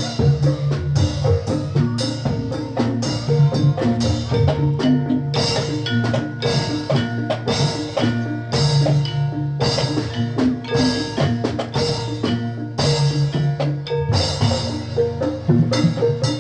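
Live jathilan gamelan accompaniment: drums and struck metal-keyed instruments playing a steady, busy rhythm over sustained pitched tones and a deep bass.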